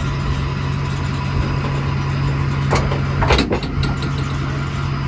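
A vehicle engine idling steadily, with a couple of short metallic knocks a little before the middle and just past it.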